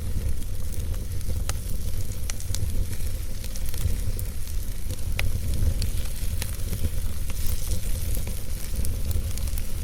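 Wood fire burning in a fireplace: a steady low rumble and hiss, with scattered sharp crackles and pops every second or so.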